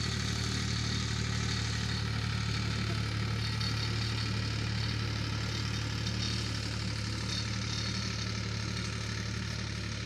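Ford 3600 tractor engine running steadily at an even, low pitch, easing slightly in loudness near the end.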